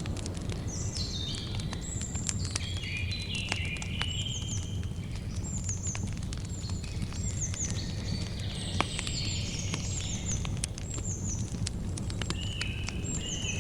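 Campfire crackling with scattered sharp pops over a steady low rumble, while birds sing repeatedly: quick downward-slurred high chirps and lower stepping phrases.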